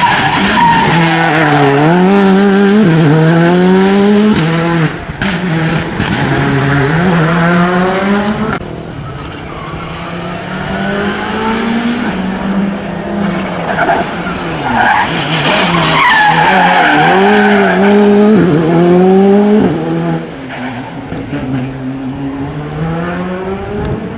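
Rally cars at full throttle on a special stage, engine pitch climbing and dropping sharply with each gear change and lift-off. One car passes loudly in the first eight seconds, and a second louder pass follows from about thirteen to twenty seconds.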